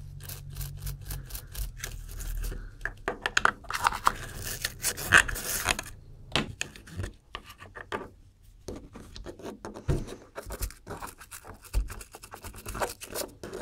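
Scrubbing and polishing by hand on a vintage audio limiter's faceplate: irregular scratchy rubbing strokes, heaviest about four to six seconds in, easing off briefly later before starting again.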